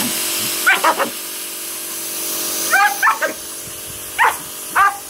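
German Shepherd barking at a running pressure washer: about eight short barks in quick groups of two or three, over the washer's steady spray hiss and pump hum.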